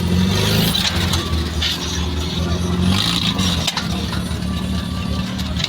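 Off-road 4x4's engine running steadily at low revs, with small rises and dips in throttle as it is eased through an obstacle.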